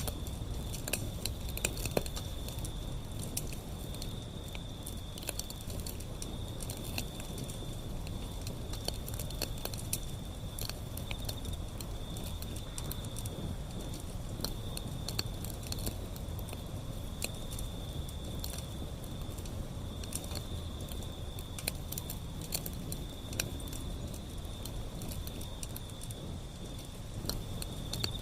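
Wood fire burning, with constant irregular crackles and pops over a low steady rumble of the flames. A steady high-pitched insect trill, like a cricket, runs underneath.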